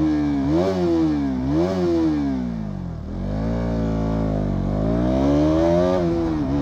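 KTM Duke 200 BS6's single-cylinder engine revving as the bike pulls away in first gear. The revs rise and fall twice, sag, then climb steadily for about three seconds, with a short dip near the end.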